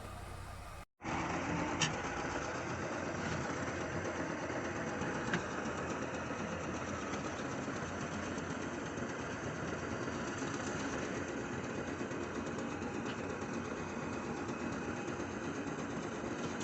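Heavy diesel engine running steadily with a dense mechanical clatter, starting about a second in.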